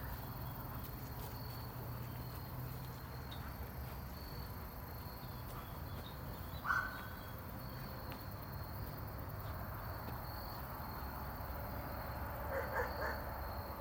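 Quiet outdoor background: a steady high insect drone over a low rumble, with one short sound about seven seconds in and a few faint ones near the end.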